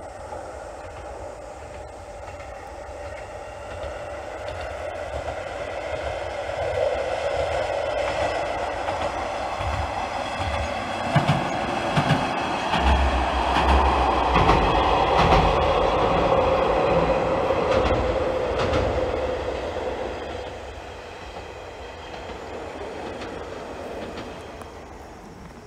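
Shigaraki Kohgen Railway diesel railcar running past on the single-track line: its running sound grows as it approaches, with a few sharp clacks of the wheels over rail joints about eleven seconds in. It is loudest a little past halfway and fades away near the end.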